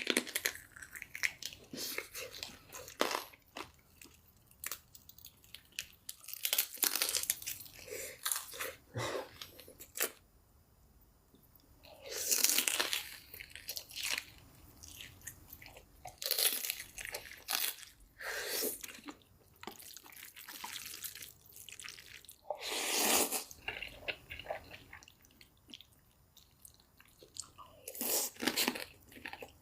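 Close-miked biting and chewing of jumbo crispy fried chicken: the crisp coating crunches and crackles in irregular bursts, with quieter chewing between bites.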